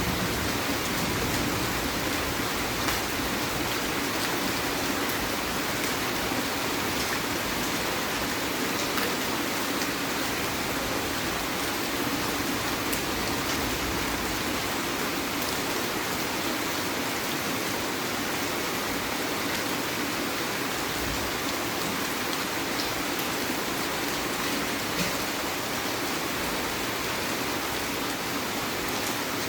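Heavy rain falling steadily: a dense, even hiss with an occasional sharper tick of a drop.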